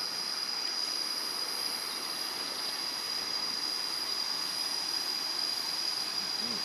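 Insects calling in a steady, unbroken high-pitched drone, over a faint even hiss.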